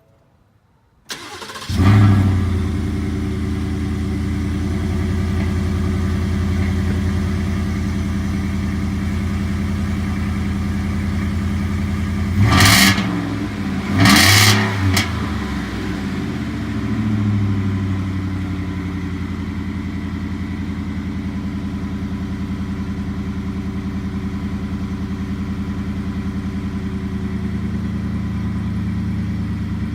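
Ford 5.0L Coyote V8 of a 2018 F-150 cold-started through a Raptor cat-back exhaust with the resonator deleted and the stock Raptor muffler. A short crank about a second in catches with a flare of revs and settles into a high, steady cold idle. Two quick throttle blips come near the middle, then a smaller one, and the idle eases a little lower.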